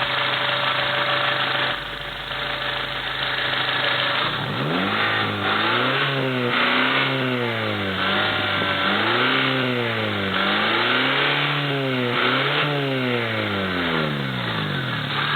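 Honda K-series four-cylinder engine idling, then revved up and let fall back about five times in a row, each rev lasting a second or two.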